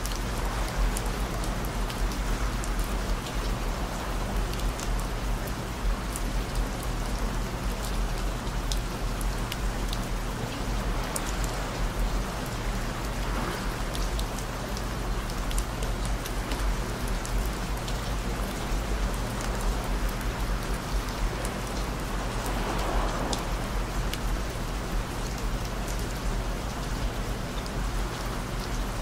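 Steady rain falling, an even hiss with many small drop ticks, over a bed of low steady tones.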